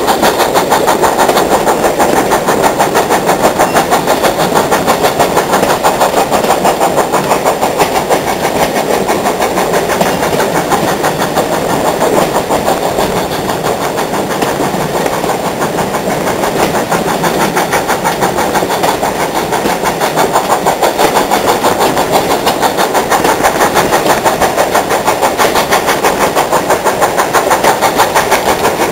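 Steam locomotive working steadily, its exhaust beats coming fast and even, loud and unbroken, easing a little partway through.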